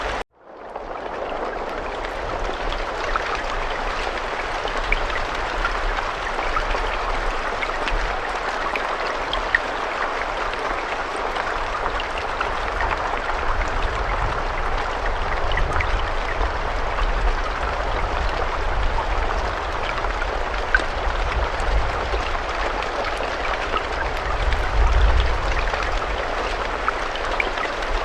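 Steady rainfall, an even hiss with scattered individual drops ticking and a low rumble underneath. Right at the start the sound cuts out briefly and fades back in over about a second.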